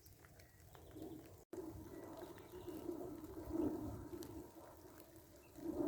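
Pigeons cooing in low, wavering, drawn-out phrases, with a brief dead gap about a second and a half in.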